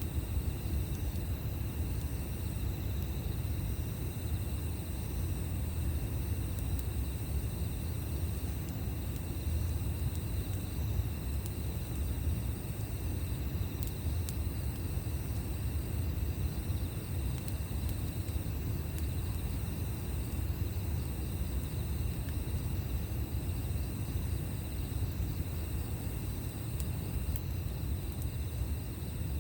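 Campfire burning with a few faint crackles, under a steady low rumble, while insects trill continuously in high, thin tones.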